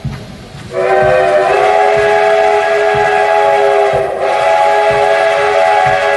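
Steam locomotive whistle giving a long, loud, chord-like blast that starts under a second in, dips briefly about four seconds in, then sounds on again. Regular low thumps from the moving train run underneath, about two a second.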